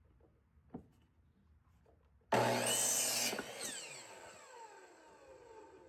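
An electric saw starts abruptly and runs loud for about a second, cutting a 2x4. Its blade then winds down with a falling whine that fades over the next few seconds. A single light knock comes earlier.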